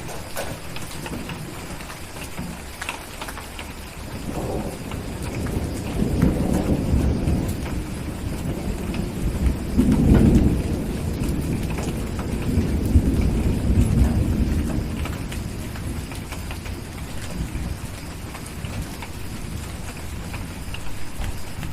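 Steady rain with a long roll of distant thunder that builds from about four seconds in, is loudest near the middle and slowly fades away.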